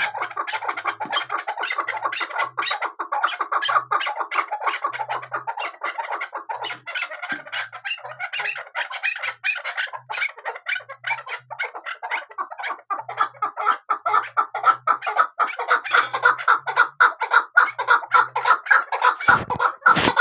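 Chukar partridges calling continuously: a fast, unbroken run of repeated clucking chuk notes that grows louder in the second half.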